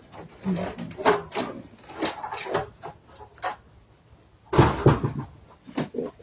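A string of irregular knocks and clatters, like doors or cupboards being handled, with the loudest knock about four and a half seconds in.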